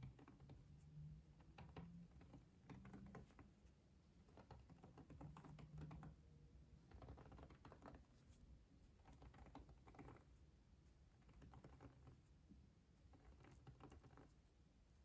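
Faint, soft clicking and tapping in short clusters about a second long, with brief pauses between them.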